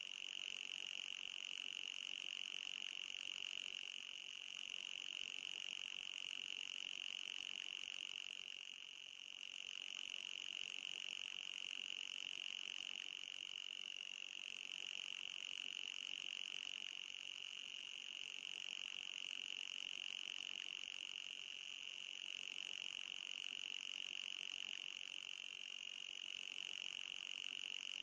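Electronic anti-mosquito repellent tone: a steady high-pitched whine with a fainter, higher tone above it, dipping slightly in level every few seconds.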